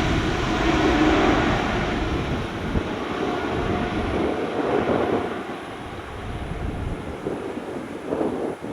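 Airliner's jet engines roaring and fading away as the plane moves off, with the noise picking up again near the end.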